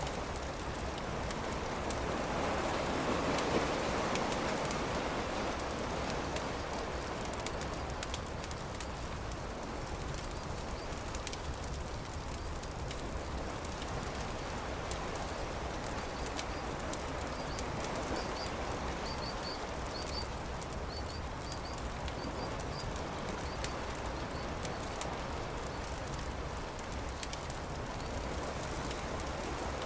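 Campfire crackling with many small pops over a steady wash of surf that swells about three to five seconds in. A bird chirps a few times in quick succession a little past the middle.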